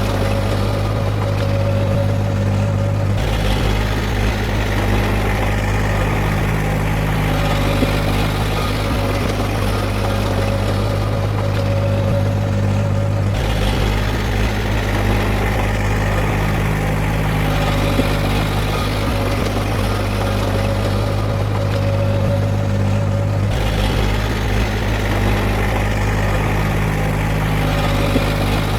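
Heavy diesel earthmoving machinery running steadily with a deep drone. Its tone shifts abruptly three times, about ten seconds apart.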